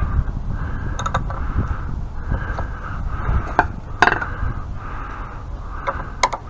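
Socket ratchet wrench being worked back and forth on a nut, its pawl rasping in repeated short strokes about once or twice a second, with a couple of sharp metal clicks about halfway through.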